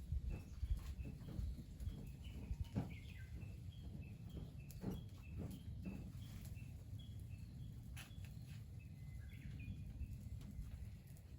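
Outdoor ambience of short, high chirps repeated irregularly, over a low rumble and scattered sharp clicks.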